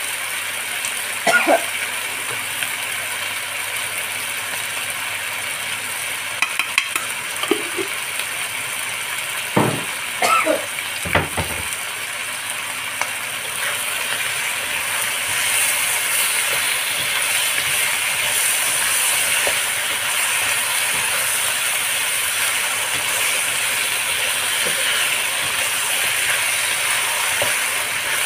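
Chicken wings sizzling in hot oil in a nonstick wok while a wooden spatula stirs them; the steady crackling hiss grows louder about halfway through. A few short knocks and scrapes of the spatula in the first half.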